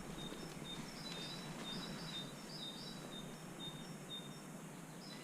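Quiet woodland ambience: a bird calling with short, high chirps repeated every half second or so, over a faint even hiss.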